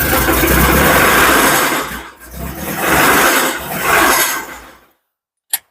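Porsche 924's four-cylinder engine running with a rapid mechanical ticking knock. It swells, eases about two seconds in, swells again and fades out near the end. The owner suspects a valve out of adjustment or worse, a rod knock.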